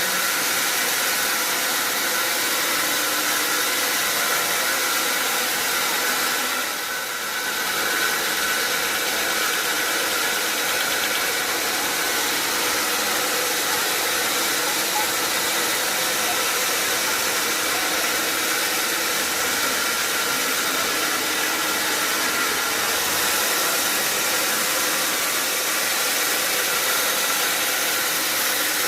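Sawmill machinery running steadily: a continuous loud hiss with a faint, even whine and hum under it, dipping briefly about seven seconds in.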